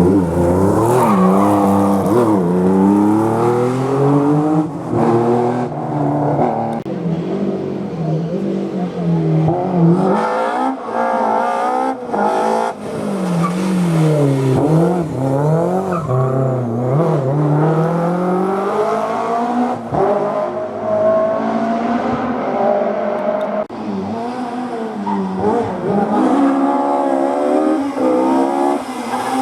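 Historic rally car engine revving hard through a hairpin, its pitch climbing and dropping again and again with throttle changes and gear shifts.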